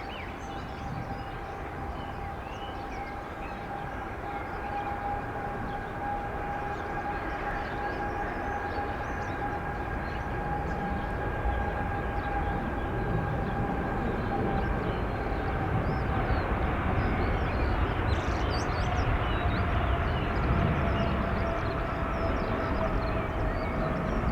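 Boeing 777 jet engines at takeoff thrust, a steady rushing noise with two high fan whines that slowly sink in pitch. The sound grows steadily louder as the aircraft approaches.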